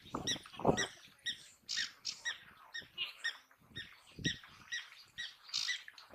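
High, squeaky animal chirps repeating evenly about twice a second, with a few low thumps near the start and around four seconds in.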